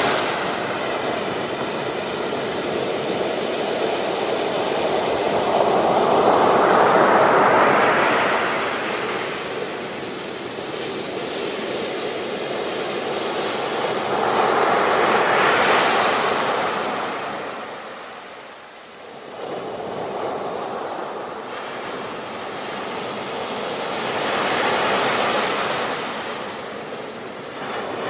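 Ocean surf breaking on a beach: a steady wash of waves that swells and fades, with three waves cresting about eight to nine seconds apart and a brief lull between the second and third.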